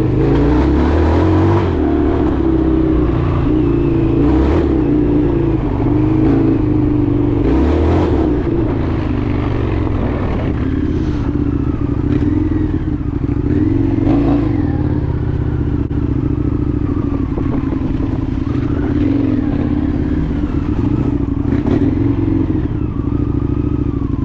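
Indian FTR 1200's V-twin engine running steadily under way, its pitch wavering slightly up and down with the throttle.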